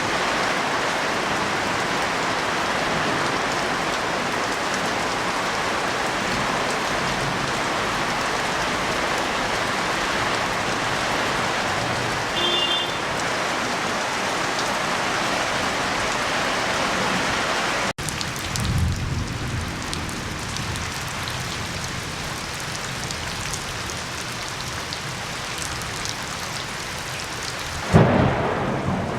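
Heavy rain pouring steadily as a dense hiss. Partway through it turns lighter, and deep low rumbles come in, with a loud low burst of rumbling near the end, from thunder or wind gusts in the storm.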